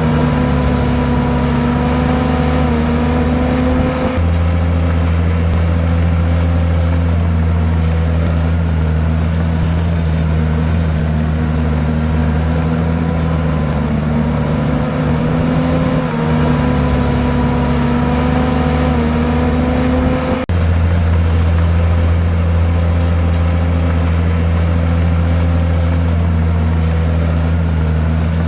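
Komatsu bulldozer's diesel engine running steadily while working. Its note shifts a few times, with a brief dip about 20 seconds in.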